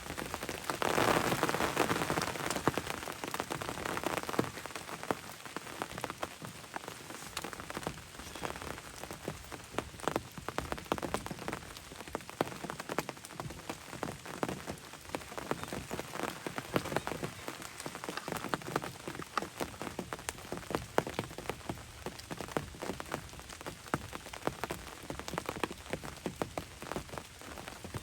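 Steady rain falling on a hunting ground blind, with many close individual drops ticking sharply. The rain is heavier for a few seconds near the start.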